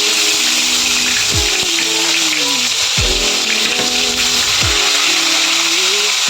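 A steady, loud whirring hiss from a small electric appliance, over background music with a deep kick drum about every second and a half.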